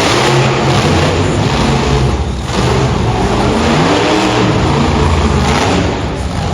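Monster truck engine revving, its pitch rising and falling several times.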